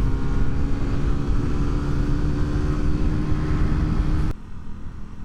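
Vehicle engine running at a steady speed while driving, a constant hum over road rumble. It cuts off abruptly a little past four seconds in, leaving quieter road noise.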